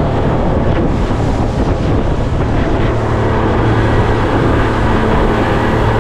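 A boat's outboard motor running steadily under way, with wind buffeting the microphone and water rushing past the hull.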